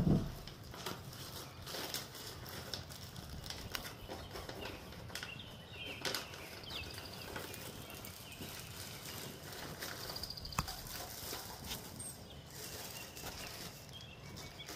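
Wild birds chirping and calling here and there over outdoor background noise, with a brief high trill about ten seconds in. A sharp low thump comes right at the start.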